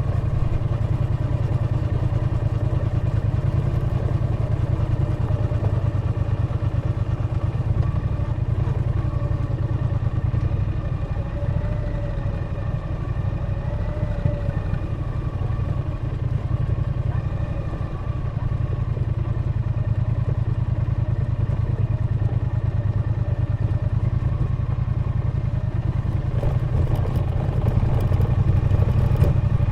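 Triumph Bonneville T120's 1200 cc parallel-twin engine and exhaust running steadily while riding, easing off briefly about two-thirds of the way in and then pulling harder near the end.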